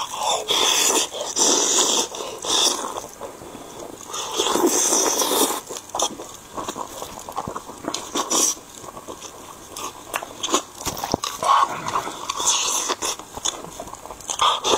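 Close-miked wet chewing and lip-smacking as a person bites into and eats fatty pork with glazed skin, in irregular bursts with sharp little clicks.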